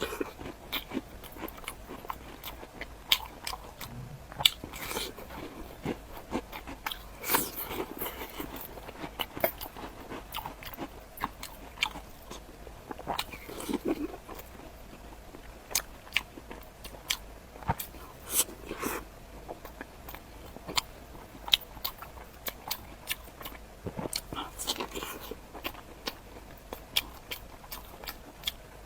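Close-miked eating: a person biting and chewing food, with irregular crunches and sharp mouth clicks.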